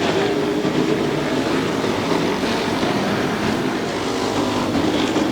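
Pack of Super Pro race trucks running at speed around a short oval, several engines droning together at a steady pitch.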